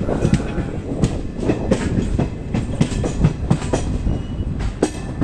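Train running along the track, its wheels clacking over rail joints in an uneven rattle over a steady low rumble.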